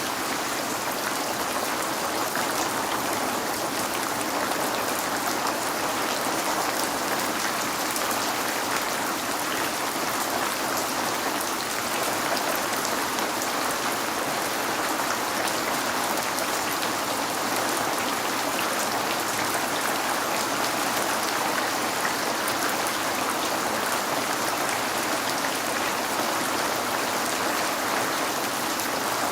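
Steady rain on a window, a dense patter of small drop ticks over an even hiss that holds unchanged throughout.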